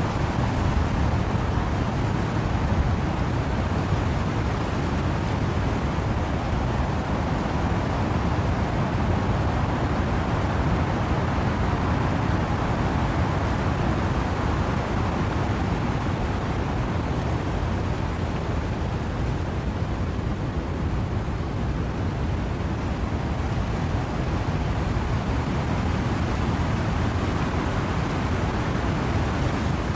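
Steady wind-and-rain noise: an even rushing sound, heaviest in the low rumble, with no separate gusts or drops standing out.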